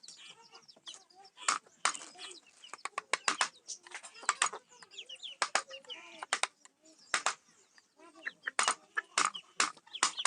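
Sharp, irregular taps of a carving chisel being struck as it cuts into teak wood, sometimes in quick runs of several taps a second.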